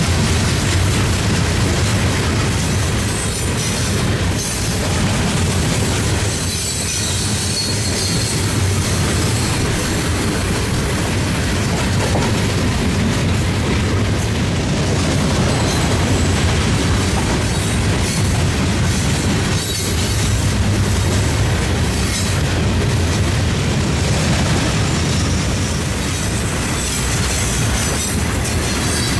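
A train rolling past, its cars running steadily over the rails with a continuous rumble, and a high wheel squeal faintly above it.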